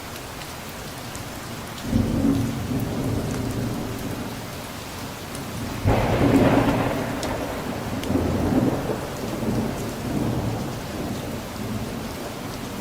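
Steady rain falling, with a roll of thunder about two seconds in and a louder, sharper thunderclap about six seconds in that rumbles on for a few seconds.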